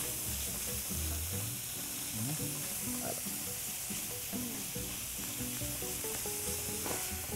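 Ground beef browning in a hot frying pan, sizzling steadily as it is stirred with a wooden spoon. Soft background music plays underneath.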